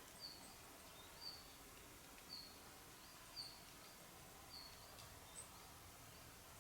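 A small bird giving short, faint, high calls about once a second against a quiet background.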